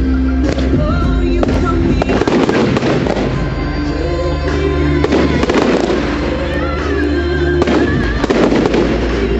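Fireworks display going off, a string of sharp bangs and crackles, over loud music playing along with it.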